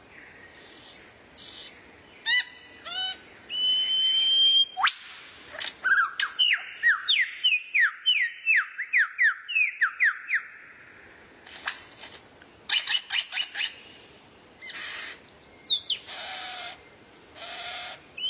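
Recorded songbird song: a varied string of sharp whistles, with a held high note about four seconds in, a fast run of quick down-slurred whistles from about six to ten seconds in, and harsher rasping notes near the end.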